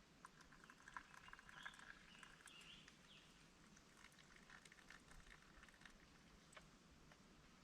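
Near silence with faint scattered ticks and crackles, busiest in the first three seconds.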